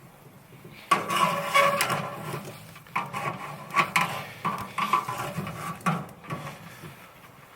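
Metal clattering and clinking, like pots or camp cookware being handled, in a run of sharp knocks with a ringing tone from about a second in, dying away near the end.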